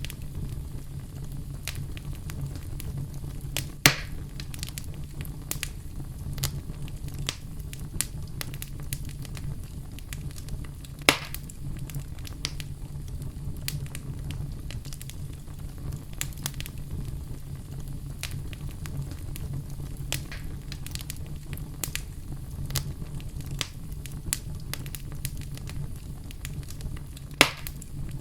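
Campfire burning, with a steady low rumble and many small crackles. Three louder pops stand out, at about 4, 11 and 27 seconds in.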